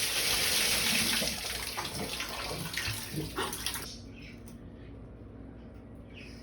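Shower water spraying in a steady hiss, which stops abruptly about four seconds in, leaving quiet room tone with a few faint ticks.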